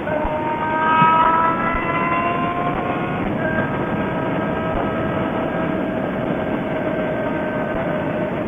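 Suzuki GSX-R600 inline-four with a CSRacing full-system exhaust, pulling under acceleration. Its note climbs for about three seconds, drops at an upshift, then holds nearly steady, with wind rush underneath.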